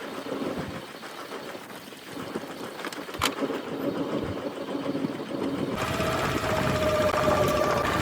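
A boat engine running, with a few clicks early on; about six seconds in it suddenly gets louder, with a steady hum and a higher whine over it.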